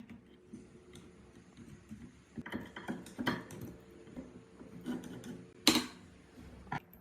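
Irregular metallic clicks and clanks of parts and hand tools being handled while working on a rusty two-stroke engine water pump, with a sharp clack about two thirds of the way through.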